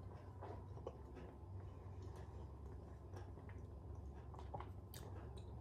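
A person faintly chewing a mouthful of soft oatmeal, with a few small clicks over a steady low hum.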